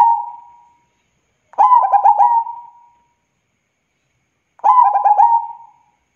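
Zebra dove (perkutut) cooing: phrases of several quick staccato notes, each ending in a drawn-out fading coo. The song repeats about every three seconds, twice in full after the tail of an earlier phrase.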